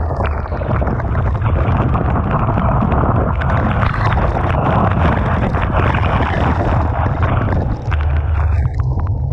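Typhoon wind buffeting the microphone with a heavy, continuous low rumble, over the hiss of rough sea and breaking surf. The surf hiss drops away near the end, leaving mostly the wind rumble.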